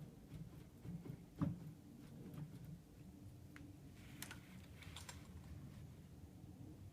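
Scattered light clicks and one sharper knock about a second and a half in, from hands working the milling machine's table controls while zeroing the position, over a low steady hum.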